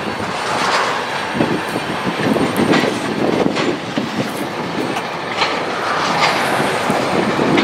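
Railroad tank cars of a freight train rolling past: a steady rumble of steel wheels on rail, with sharp clicks every second or so as the wheels cross rail joints.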